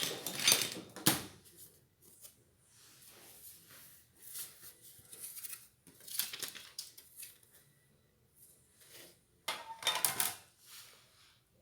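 Ceiling fan parts being handled during assembly: irregular clicks, knocks and rustles. They are loudest in the first second and again about ten seconds in.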